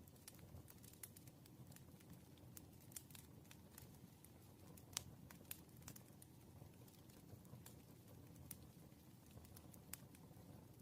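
Faint, irregular small clicks and taps of a pen writing on paper at a desk, over a low room hum; one tap about halfway through stands out.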